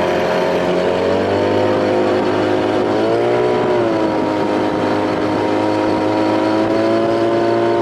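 A 1993 Evinrude two-stroke outboard motor runs under way at steady revs, with a brief rise and fall in pitch about three seconds in. It is spinning out as its propeller hits weeds.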